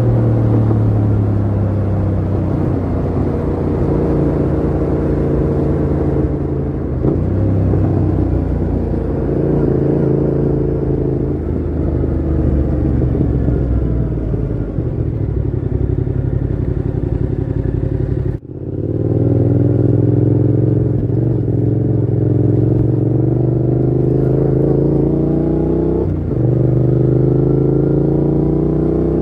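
Yamaha MT-07's parallel-twin engine through a Mivv GP Pro full exhaust with the dB killer fitted, accelerating through the gears. The pitch climbs and drops back at each shift, falls away while easing off in the middle, and cuts out for a moment about two-thirds in before climbing again.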